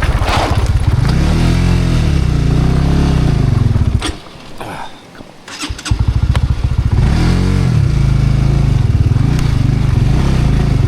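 Light motorbike engine revving up and down under load as it climbs a rough, narrow path. About four seconds in it cuts out for nearly two seconds, then runs again: the bike is close to getting stuck.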